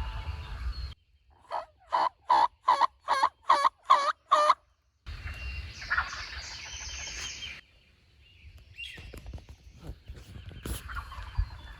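A run of about nine evenly spaced turkey yelps, each short and pitched, about three a second.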